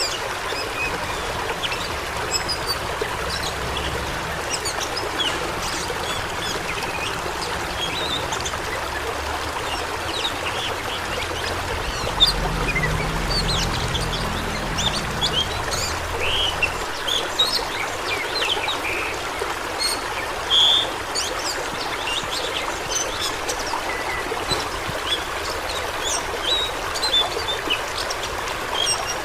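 Rushing water flowing steadily, with many short bird chirps and calls scattered over it and a low rumble swelling briefly near the middle.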